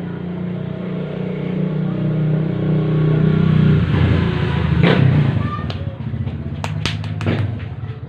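Engine running, rising in level to a peak about four to five seconds in, then easing back. Several sharp, irregular clicks follow. The engine has a knock that is being traced to the cylinder head and camshaft.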